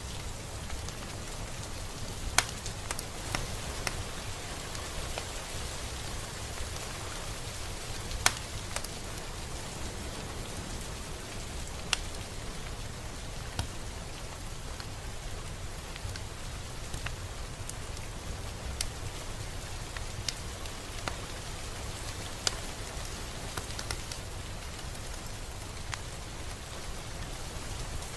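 Steady rain falling, a continuous even hiss with scattered louder individual drops tapping close by.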